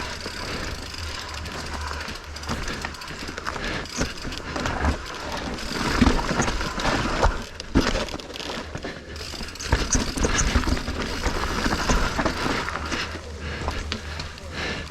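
Mountain bike rolling over a rough, rocky trail: tyres crunching and the bike rattling, with irregular knocks from hits, the biggest about six, seven and ten seconds in.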